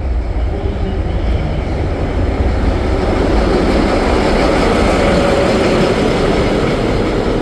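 Train running on the rails close by, a heavy rumble and rushing noise that builds over the first few seconds and then holds steady.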